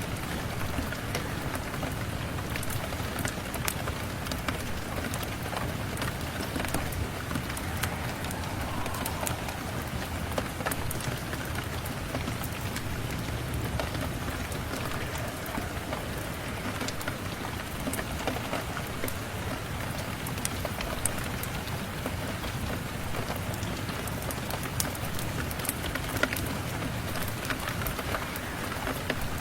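Steady rain falling, mixed with a crackling wood fire: an even hiss of rain with scattered sharp ticks and pops throughout.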